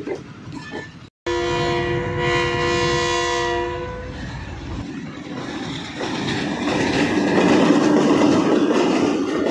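Train horn sounding one long multi-note blast of about two and a half seconds, cutting in abruptly just after a second in. The train's running noise follows and grows louder toward the end.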